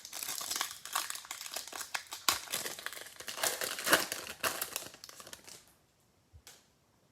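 Foil trading-card pack wrapper being torn open and crinkled by hand: a dense run of crackling that stops a little before six seconds in, with one short crinkle about half a second later.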